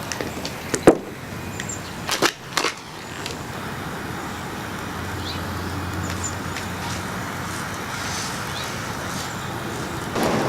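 Handheld torch flame hissing steadily as it heats an engine-mount bracket, with a few sharp metallic knocks in the first three seconds.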